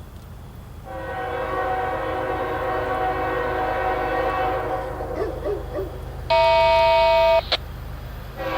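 Diesel freight locomotive air horn blowing for a crossing: a long chord from about a second in that fades away near the fifth second, then a short, very loud blast of about a second, and the horn starting again right at the end.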